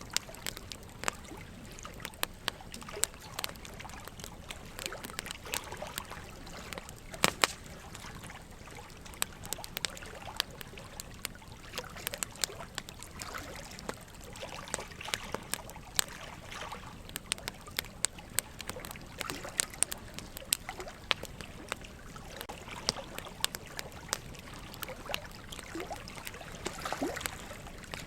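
Burning logs crackling with frequent sharp pops, the loudest about seven seconds in, over a steady background of running water.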